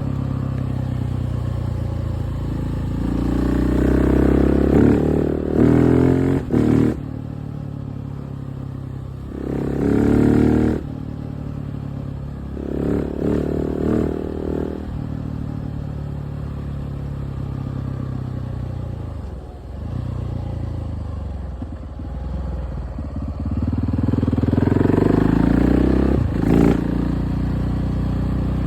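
KTM 690 SMC R's single-cylinder engine being ridden, its revs climbing and falling several times. There are louder surges of throttle at about 4–7, 10, 13–14 and 24–27 seconds in, with a brief dip in the middle.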